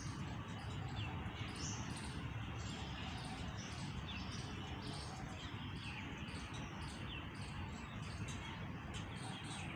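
Small birds chirping repeatedly, short high chirps a few times a second with the odd quick falling note, over a steady low rumble.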